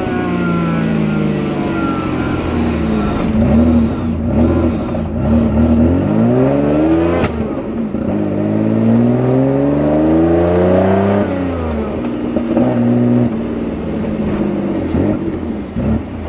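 Supercharged BMW M50B20 straight-six with an SC14 supercharger, heard from inside the car's cabin while driving, revving up and dropping back several times as the pitch climbs under throttle and falls away. A sharp snap cuts through about seven seconds in.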